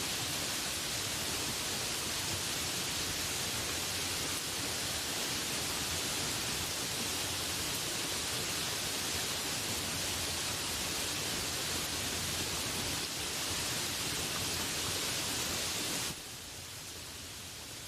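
Steady rainfall, an even hiss of rain, that drops to a softer level about sixteen seconds in.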